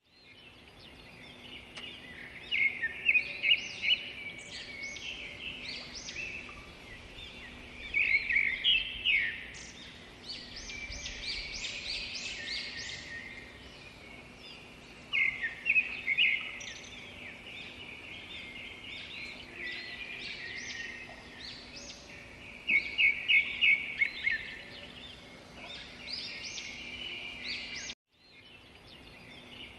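Birds chirping in quick runs of sharp, high notes, with several loud bursts separated by quieter calling, over a faint steady low hum. The sound cuts out briefly near the end.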